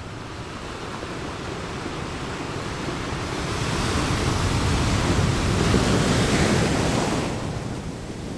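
Ocean waves. The surf swells up over several seconds, is loudest a little past halfway, and eases off near the end as the wave washes out.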